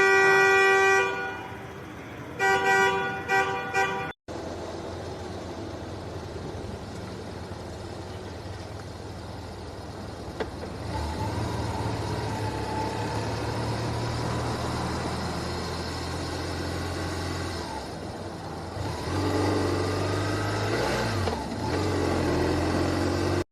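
Car horn held, then sounded in three or four short honks. After a sudden cut, steady road and engine noise of a car driving.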